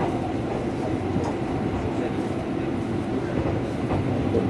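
Tobu Railway electric train running, heard from inside the passenger car: a steady rumble of the wheels on the rails with a few faint clicks.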